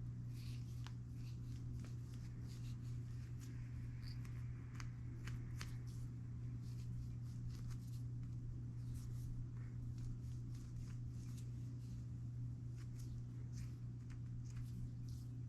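Faint scratching and light clicks of a hand bead file bevelling and smoothing the hole of an acrylic bead, over a steady low hum.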